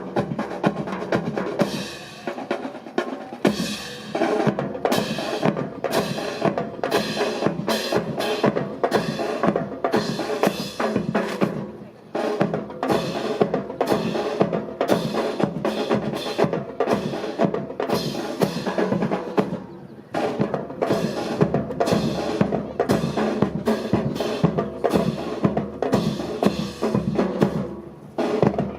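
Military drum corps playing a marching cadence on snare and bass drums, with drum rolls, accompanying a precision rifle drill; the playing breaks off briefly a few times.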